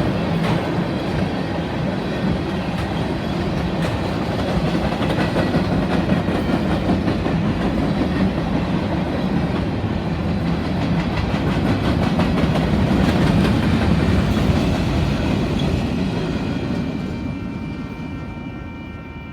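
Freight cars of a passing Union Pacific mixed freight train rolling by, wheels clicking and clattering over the rail joints, the sound fading over the last few seconds.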